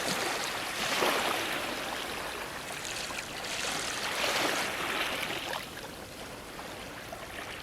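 Ocean waves washing against a dock, with swells of splashing and hiss about every one to two seconds that ease off near the end.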